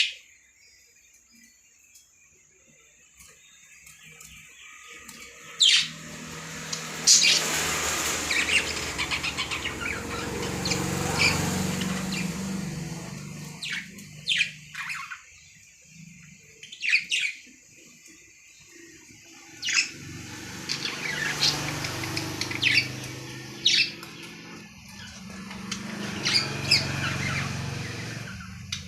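Lovebirds chirping: sharp, high chirps in scattered bursts, starting about six seconds in, over a low hum that swells and fades a few times.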